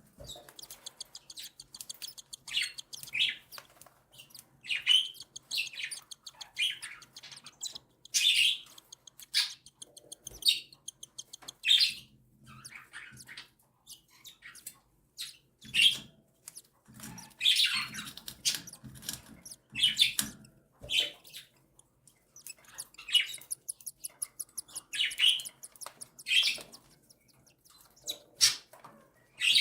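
Cockatiel chicks begging for food with repeated short, raspy, high-pitched calls that come in irregular clusters, as the mother feeds them.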